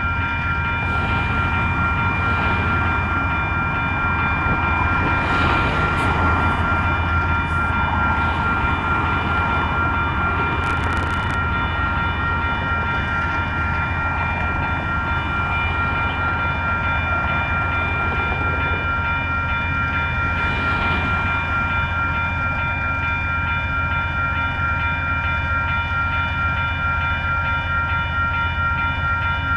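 Amtrak passenger train's diesel locomotive running steadily: a constant low engine hum under several steady high-pitched whining tones.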